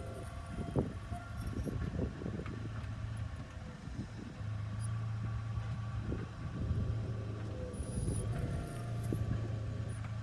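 Hyundai Accent on the move: a steady low hum of engine and road noise with irregular low knocks and faint steady high tones. The hum grows stronger about halfway through.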